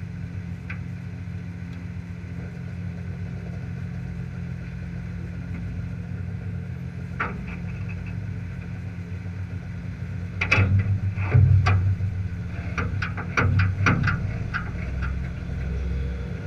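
Off-road race car engine idling steadily. Between about ten and fourteen seconds in come several louder bursts with sharp cracks.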